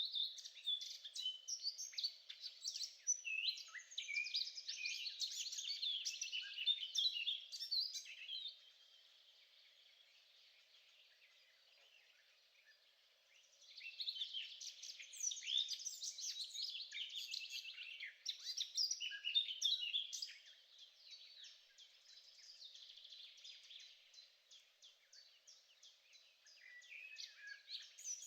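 A songbird singing long runs of rapid, varied high chirps and trills. There are two long bouts with a pause of several seconds between them, then quieter, sparser notes near the end.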